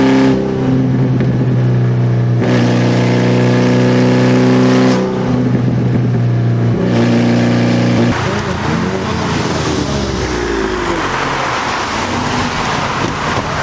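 Car engine running at steady revs that change in sudden steps every couple of seconds. From about two-thirds of the way in, this gives way to road and traffic noise with a sweeping, passing sound.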